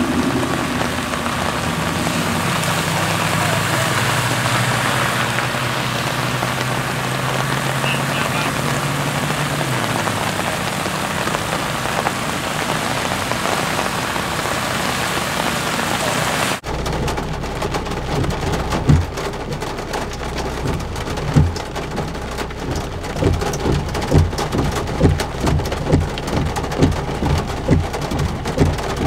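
Heavy rain falling, a steady loud hiss, with a low hum under it for the first third. About halfway through the sound changes abruptly to a different recording: rain still falling, now with irregular low thumps.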